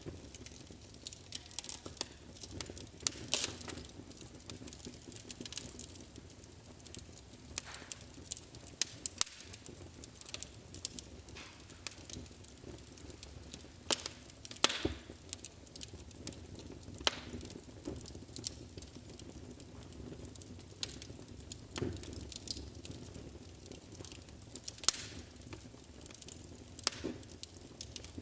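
Wood fire burning in a fireplace: irregular sharp crackles and pops, several louder snaps among them, over a low steady rush of flame.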